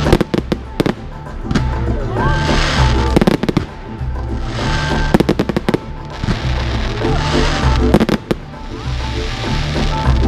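Fireworks going off in several quick clusters of sharp bangs and crackles, over background music with a steady beat.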